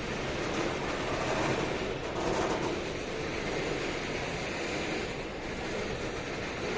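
A train moving on the station tracks: a steady rolling rumble with small swells.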